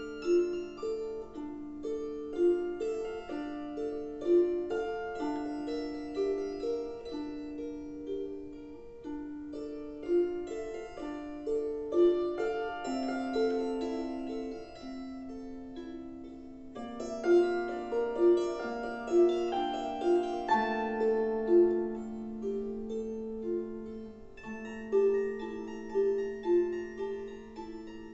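Solo instrumental lullaby: a gently repeating figure of short notes in the middle register over held low notes, with the harmony changing about halfway through.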